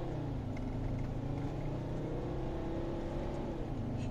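Lancia Thesis 2.4 JTD five-cylinder turbodiesel pulling at full throttle, heard from inside the cabin. The engine note climbs steadily, then drops near the end as the automatic gearbox shifts up.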